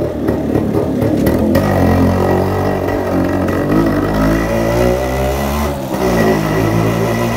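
Yamaha RX100's two-stroke single-cylinder engine running under way at low speed. Its pitch rises and falls with the throttle, dips briefly near the six-second mark, then picks up again.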